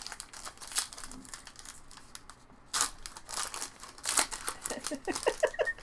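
Foil wrappers of baseball card packs being torn open and crinkled, in irregular crackling bursts. A voice begins near the end.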